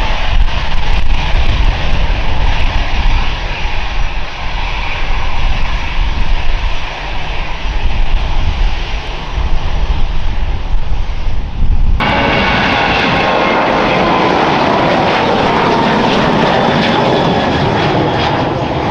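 Jet airliner engines roaring, with a heavy low rumble. About twelve seconds in the sound cuts abruptly to another jet, whose engine whine falls steadily in pitch as it goes by.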